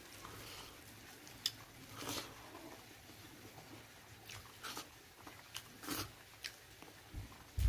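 A person chewing and biting into pork close to the microphone: scattered wet clicks and crunches. A loud low thump comes near the end.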